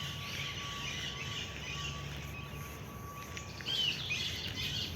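Small birds chirping and calling, with a louder, curving call a little under four seconds in, over a steady low outdoor hum.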